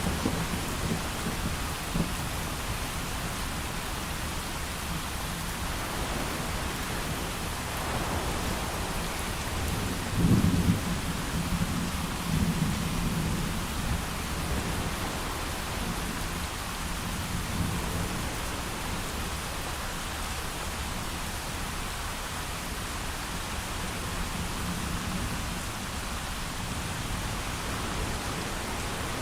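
Steady heavy rain with rolling thunder: a few low rumbles, the loudest swelling about ten seconds in and rolling on for a few seconds.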